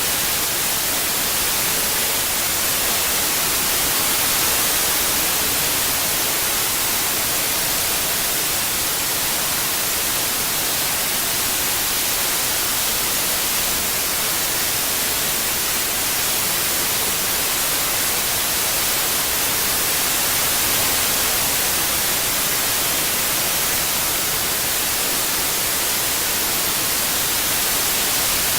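Steady white noise, an even hiss weighted toward the highs, with slight slow swells in level.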